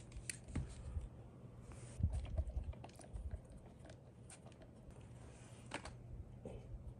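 Irregular plastic clicks and light knocks of a Happy Hacking Keyboard being handled and taken apart by hand, with a cluster of heavier knocks a couple of seconds in, over a steady low hum.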